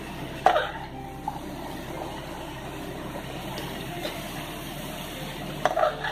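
Chicken mince with chopped onion, capsicum and tomato frying in a metal pan, a steady sizzle as it is stirred with a spatula. The spatula knocks against the pan about half a second in and again near the end.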